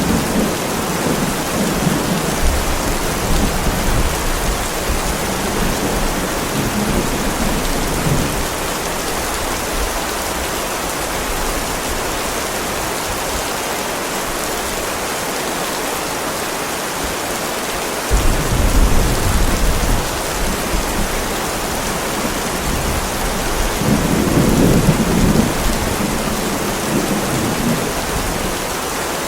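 Heavy rain falling steadily on a driveway, with rolls of thunder: low rumbling in the first several seconds, a sudden clap partway through, and another rumble swelling near the end.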